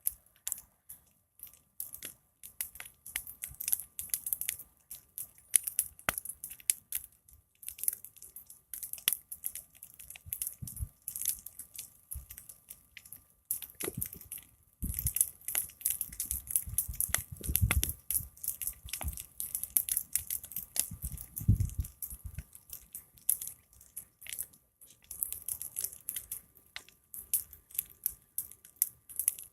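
Large wood fire crackling, with dense, irregular snaps and pops throughout. A low rumble swells in the middle and fades again.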